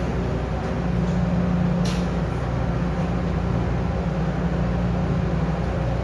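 Steady low drone of a ferry's engines and machinery, with one brief click about two seconds in.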